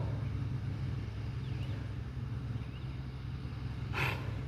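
Lawn mower engine running steadily as a low, even hum. A short sharp noise comes about four seconds in.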